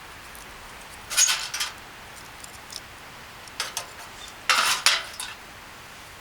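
Cutlery clinking and clattering against dishes in three short bursts, about a second in, midway and again near the end, over a steady faint hiss.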